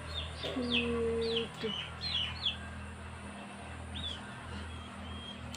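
Small birds chirping: quick, high, downward-sliding chirps, many in the first two and a half seconds, then a few scattered ones. A brief low held hum starts about half a second in and lasts about a second.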